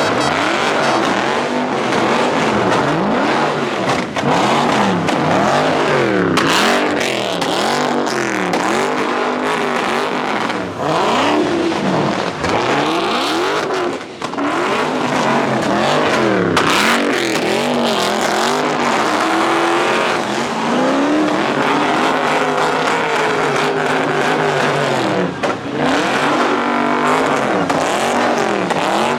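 A car engine revved up and down over and over, with tyre noise on the pavement, as a car spins in a pit.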